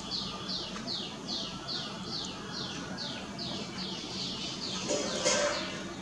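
A bird calling in a steady run of high, downslurred notes, about two and a half a second. About five seconds in, a louder and fuller sound stands out.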